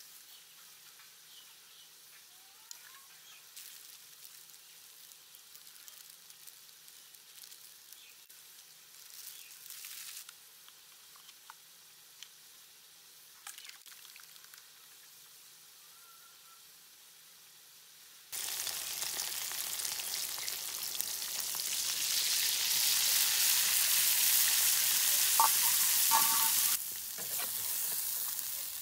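Chicken pieces sizzling loudly as they fry in oil in a karahi with green herb paste, stirred with a ladle. The sizzle starts suddenly about two-thirds of the way in, after a long quiet stretch with only a few faint clicks, and eases somewhat near the end.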